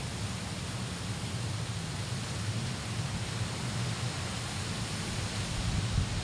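Strong wind: a steady rushing noise with low rumbling buffeting on the microphone, and a stronger gust near the end.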